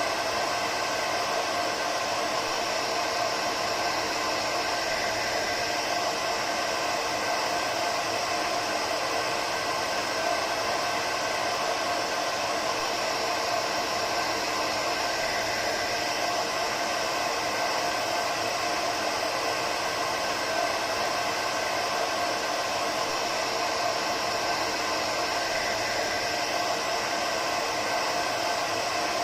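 Hair dryer running steadily: an even rush of blowing air with a faint motor whine held at one pitch, unchanging throughout.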